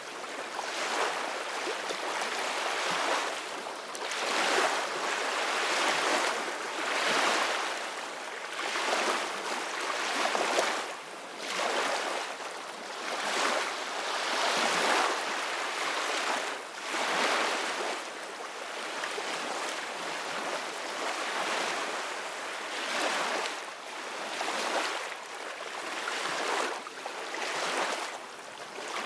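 Ocean waves breaking and washing on a shore, a steady rush that swells and falls back every couple of seconds.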